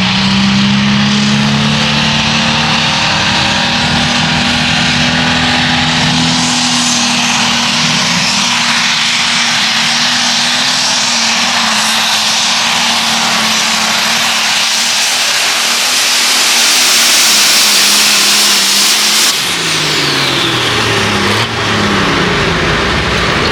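A competition pulling tractor's engine running hard at high revs down the track. About 19 seconds in the high end cuts off suddenly as the throttle comes off, and the engine winds down in pitch near the end.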